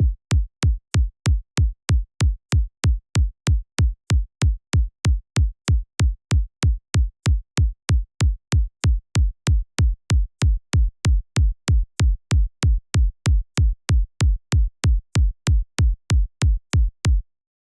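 Synthesized electronic kick drum from the Kick 2 plugin, looping on its own. Each hit is a short click over a deep, booming low thump, repeating evenly about three times a second, and the loop stops near the end.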